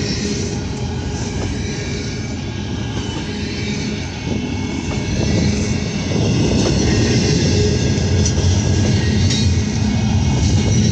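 Double-stack container train's loaded well cars rolling past: a steady rumble of steel wheels on rail with occasional clicks, growing louder about halfway through.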